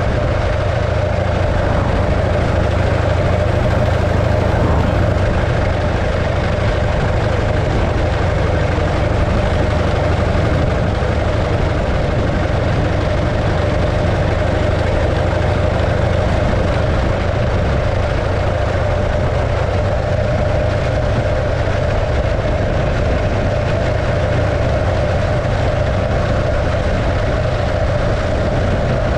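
The 1915 Arcade motorcycle's 650cc JAP V-twin engine running steadily, at an even pitch throughout.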